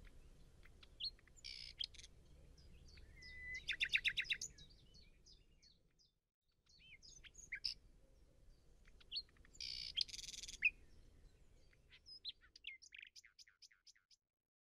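Birds chirping and trilling, with several short calls overlapping and a quick loud trill about four seconds in and another burst of song around ten seconds; the song stops shortly before the end.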